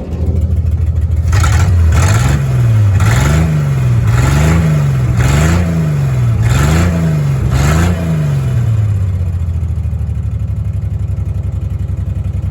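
1987 Dodge Dakota truck's engine blipped about six times in quick succession, each rev rising and falling, then settling back to a steady idle.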